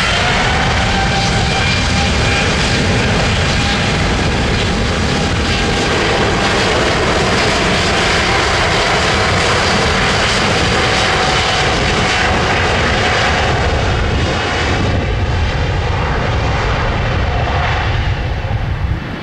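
Airbus A350-941's Rolls-Royce Trent XWB turbofans at takeoff power: a loud jet roar with a steady engine whine, which settles in pitch just at the start and fades somewhat over the last few seconds.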